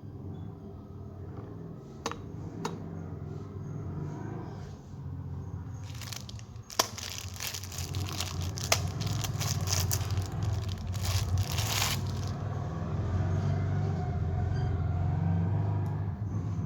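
Plastic candy wrappers crinkling and tearing, densest for several seconds in the middle, over a steady low hum.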